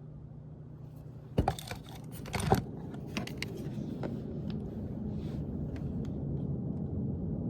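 A few sharp knocks and clicks, the two loudest about a second apart, followed by several lighter clicks, over a low steady rumble that grows a little louder after them.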